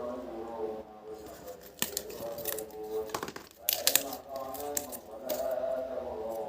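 Puzzle pieces being handled and fitted together: a string of irregular sharp clicks and clacks, loudest near the middle, over a continuous melodic background with held, changing notes.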